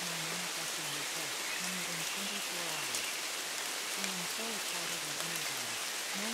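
Steady rain falling on a surface, with occasional sharp drop ticks, and a faint low-pitched voice speaking underneath: the masked affirmation track of a subliminal.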